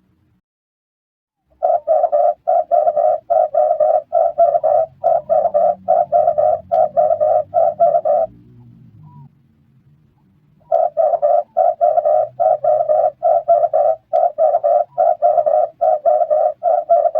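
Red turtle dove giving its rapid, repeated cooing call, about four notes a second, in two long runs with a pause of a couple of seconds between them.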